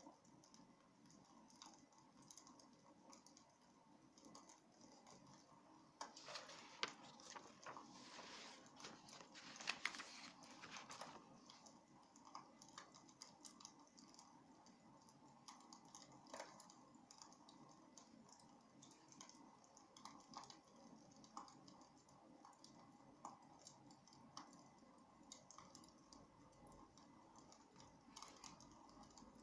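Wood fire crackling faintly in a fireplace: a scatter of small pops and ticks over a low hiss, busier and louder about six to eleven seconds in.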